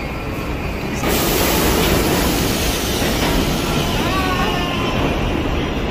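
Subway train running on the track, a steady rumbling noise that jumps suddenly louder and brighter about a second in.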